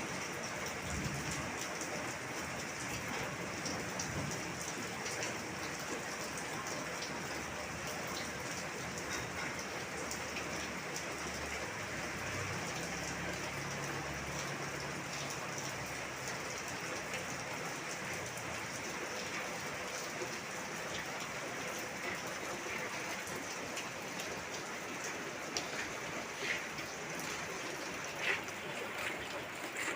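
Steady rain falling, an even hiss, with a few sharper drips or splashes near the end.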